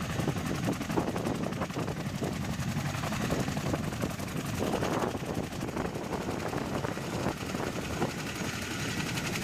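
CH-47 Chinook's tandem rotors turning on the ground, a steady, rapid chopping over a dense rush of engine and rotor-wash noise.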